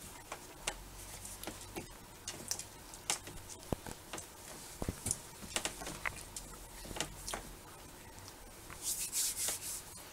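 Faint, scattered clicks and rustles of a person handling a burger and chewing it, with a short run of louder, hissy clicks near the end.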